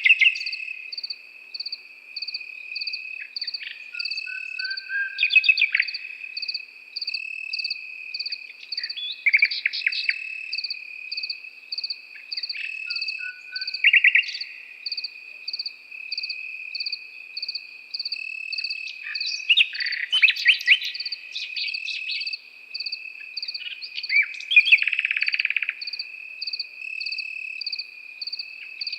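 Nightingale singing short phrases of rapidly repeated notes every few seconds, over crickets: one continuous high trill and a second insect chirping in a regular pulse.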